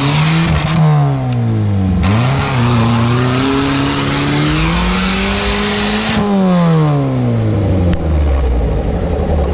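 Off-road car engine revving hard, pitch swinging up and down and held high for a few seconds, then falling back to a low steady idle near the end. A loud rushing noise accompanies the high revs.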